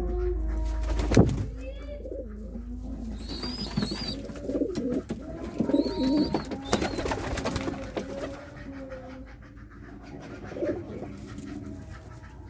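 Domestic pigeons cooing repeatedly, with a few short high chirps in the middle. A sharp knock comes about a second in.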